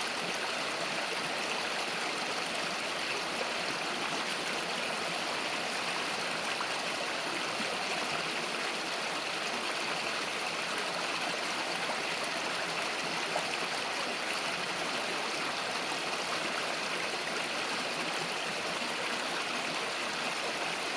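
Small rural river flowing steadily over stones, a constant rushing and gurgling.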